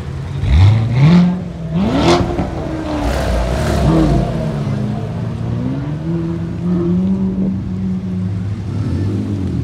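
Sports car engines revving sharply a couple of times in the first two seconds, then pulling away slowly, their pitch rising and falling with the throttle as the cars drive off one after another.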